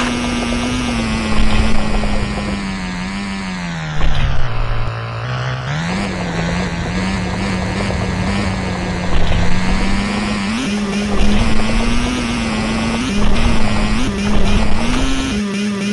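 Motocross motorcycle engine running at fairly steady revs. The pitch drops about four seconds in and climbs back a second and a half later. Several short louder surges come every couple of seconds.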